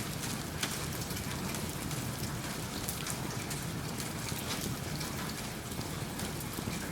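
Steady rain mixed with a wood fire crackling in a fireplace: a continuous hiss of rain with frequent small sharp crackles scattered through it.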